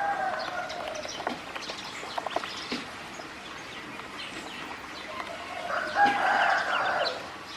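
Ducklings calling: many short high peeps and clicks, with a louder, lower drawn-out call at the start and again about six seconds in, the loudest sound.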